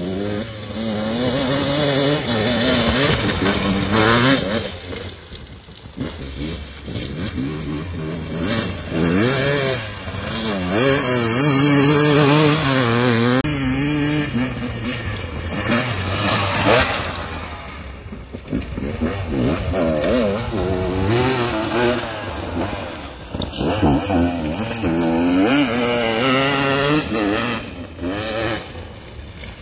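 A vehicle engine running and revving, its pitch rising and falling again and again.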